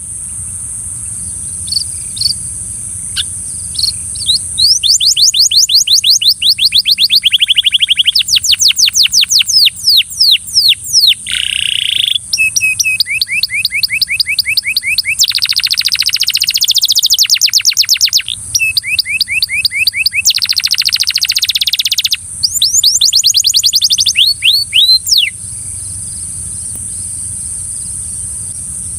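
Belgian canary singing: long runs of rapid repeated notes at changing speeds and pitches, with a few short pauses, starting about four seconds in and giving way to scattered single chirps near the end. A steady high hiss lies underneath throughout.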